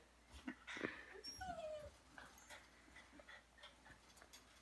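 Faint dog whimpering, with one short falling whine about a second and a half in, among scattered light clicks and taps.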